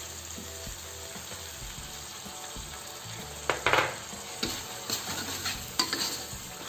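Red chili paste sizzling steadily in a steel wok. From about three and a half seconds in, a metal spatula scrapes and stirs it against the wok in a run of short strokes.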